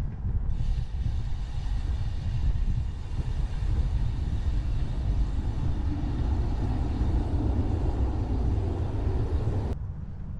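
Steady low rumble of wind on the microphone of a bike-mounted camera while riding, with a broad rushing noise over it that cuts off abruptly near the end.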